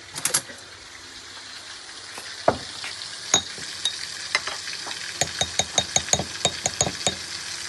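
Spice masala sizzling in hot oil in a pan while a metal spatula stirs it, with a few scraping knocks against the pan and then a quick run of tapping strokes near the end.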